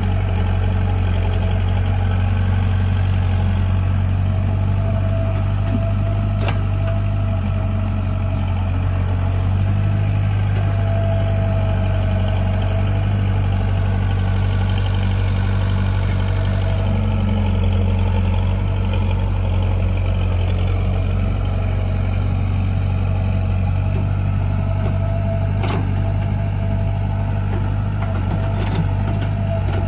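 Diesel engines of a JCB 3DX backhoe loader and tractors running steadily while soil is loaded, with a faint whine that comes and goes. A sharp knock is heard twice.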